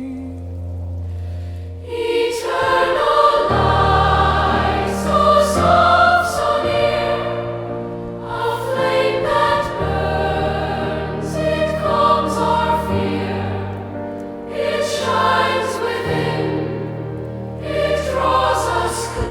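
Background music: a choir singing over held bass notes, the voices coming in about two seconds in.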